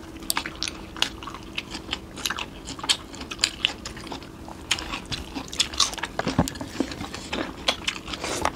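People chewing and biting food by mouth, with a steady run of quick, irregular crunching clicks.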